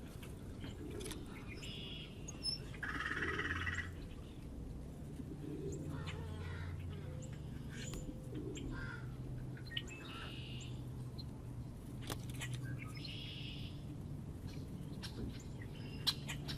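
Small birds at a feeder chirping in short separate calls every few seconds, over a low steady hum.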